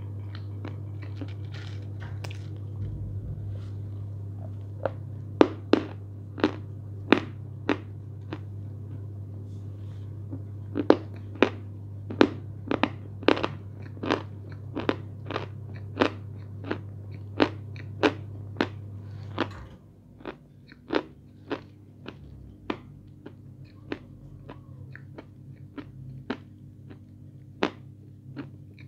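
A person chewing something crunchy close to the microphone, with a crisp crunch about once or twice a second. A steady low hum runs under it and stops about two-thirds of the way through.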